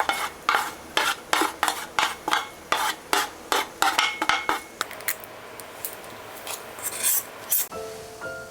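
Metal kitchen utensil striking and scraping in a pot or bowl in a quick run of strokes, about three a second, with a faint metallic ring, thinning to a few scattered clicks; background music begins near the end.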